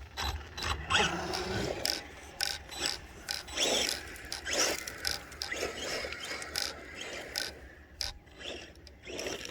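Arrma Senton 4x4 brushless RC short-course truck driving on a dirt track: irregular clicking and rattling from its drivetrain and tyres, with a few short motor whines.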